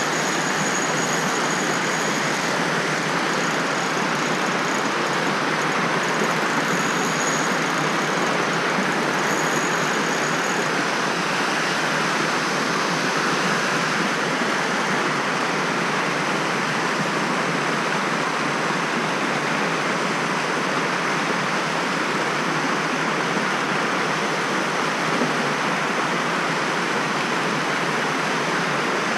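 Steady rush of flowing stream water, an even unbroken noise. A faint thin high tone comes and goes over the first ten seconds or so.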